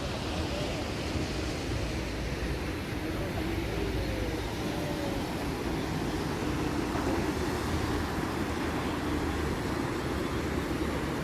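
Steady low rumbling outdoor background noise with no distinct events, strongest in the low range.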